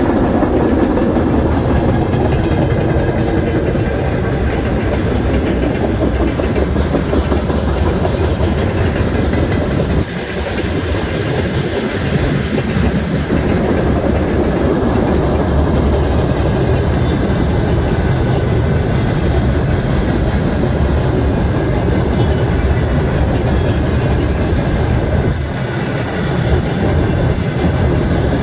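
Freight train rolling past at close range: a loud, steady rumble of heavy wagons with wheels clattering over the rail joints.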